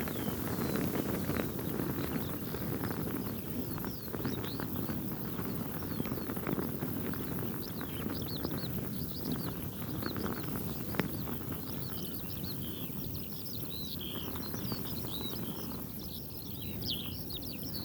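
Strong wind buffeting the microphone while a light silk veil flaps and snaps in it with irregular fluttering. Birds chirp throughout, more densely in the second half, and there is a single sharp snap about eleven seconds in.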